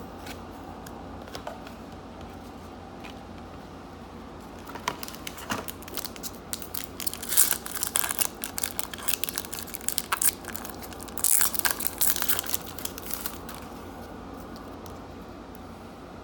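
A foil trading-card pack wrapper crinkling and being torn open, with bursts of crackling from about five seconds in until near the end, over a steady low hum.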